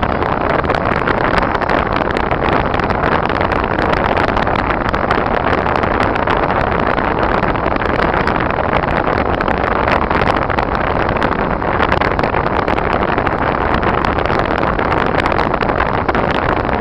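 Car driving on snowy, icy roads: a steady, unbroken rush of engine and tyre noise.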